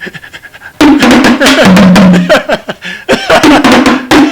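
Music: dense drumming with chanted voices, starting loudly about a second in, with a short break near three seconds.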